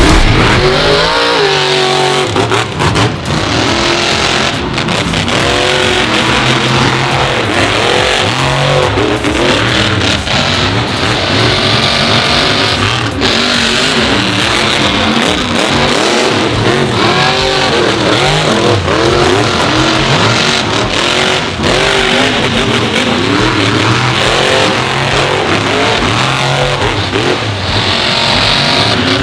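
Monster truck engines revving hard and repeatedly, the pitch climbing and falling again and again, over a continuous loud din.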